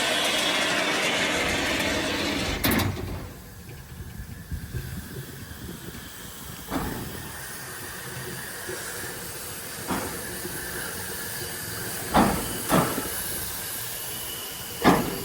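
Steam locomotive letting off steam with a loud, steady hiss that cuts off suddenly about three seconds in. After that comes a quieter background with a few sharp knocks, two of them close together near the end.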